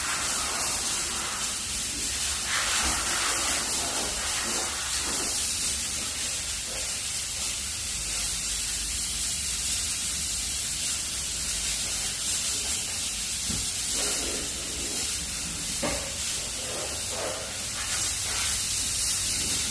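Steam cleaner jetting steam from its nozzle with a steady hiss.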